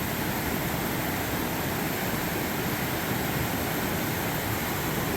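Rocky mountain stream rushing downhill over rocks: a steady, even rush of water.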